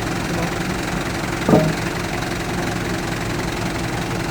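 Engine of a lorry-mounted crane running steadily at idle, with one brief, sharp sound about a second and a half in.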